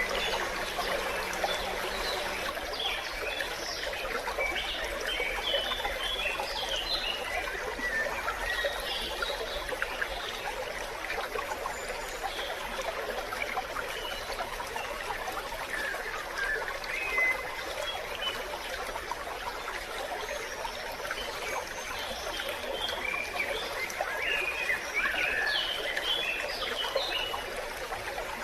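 A small stream flowing, water trickling and babbling steadily over its bed.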